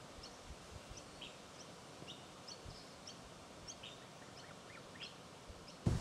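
Small birds chirping faintly: short, high chirps, about two or three a second, over faint outdoor background noise. A louder, low rustling noise starts suddenly right at the end.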